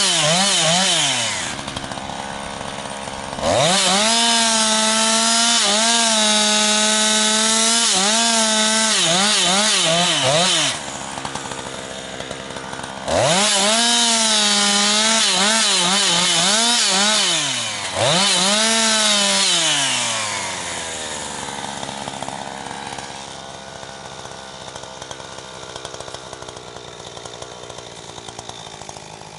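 Jonsered 2156 two-stroke chainsaw, running on its rebuilt Walbro HDA199 carburettor, cutting firewood at full throttle in three long runs, its pitch dipping and recovering under the load of the cut. Between the runs it drops back to a lower note. About two-thirds of the way through it winds down and stays much quieter.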